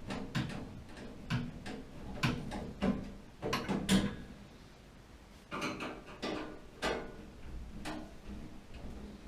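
A series of irregular clicks and knocks, like things being handled and set down, with a quieter spell about halfway through.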